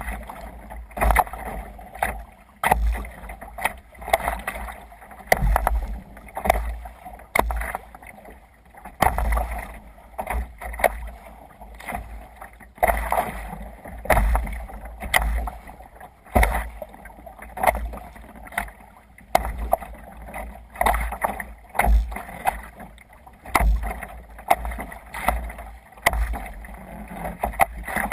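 Water splashing against a moving sea kayak in a steady rhythm, about one surge every second or so, with wind rumbling on the microphone.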